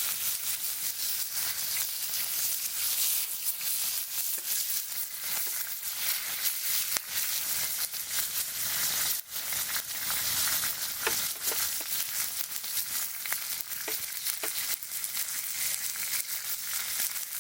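Meat sizzling over a campfire: a steady frying hiss dotted with many small pops and crackles.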